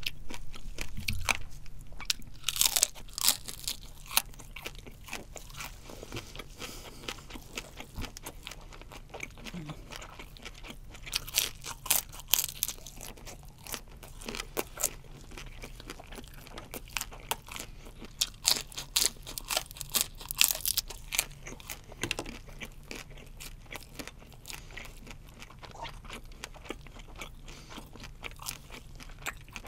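Someone chewing deep-fried shell-on shrimp: repeated crisp crunches that come in thicker, louder clusters a few seconds in, around the middle and about two-thirds through.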